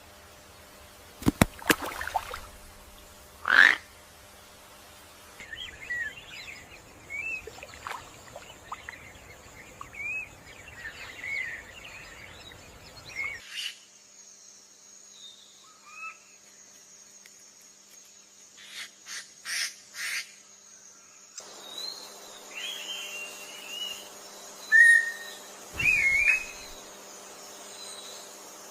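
Short chirping animal calls over a faint outdoor background, with a few sharp knocks. The background changes abruptly twice, as at edit cuts.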